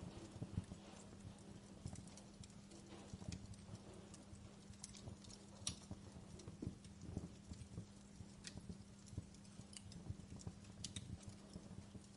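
Wood fire crackling: irregular sharp pops and snaps over soft low knocks, with a steady low hum underneath.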